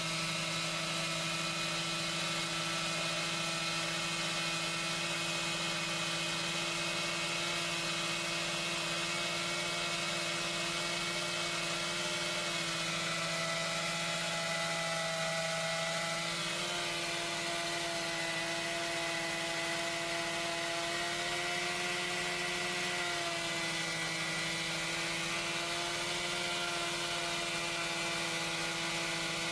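Chainsaw running steadily at high speed with an even whine, its pitch sagging slightly twice as it comes under light load.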